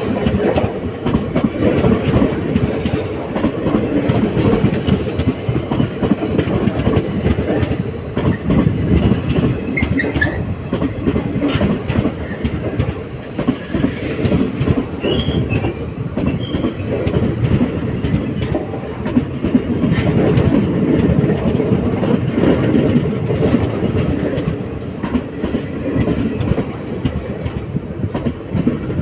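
Passenger coaches of an express train rolling past along the platform: a steady rumble with a rapid clickety-clack of wheels over the rail joints, and faint wheel squeal now and then.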